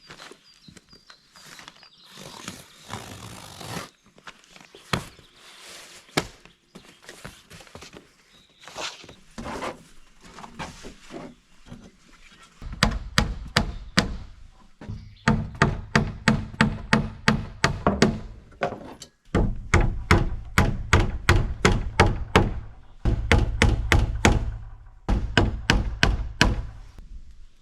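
Scattered rustling and handling noises, then, about halfway through, quick runs of heavy thunking strikes at about three a second, in three bursts with short pauses between.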